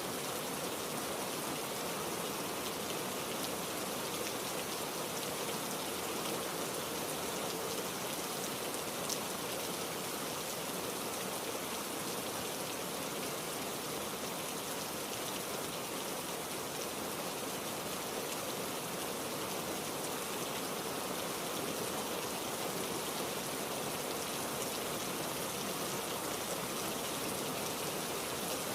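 Heavy rain falling steadily, an even hiss of drops with no change in strength.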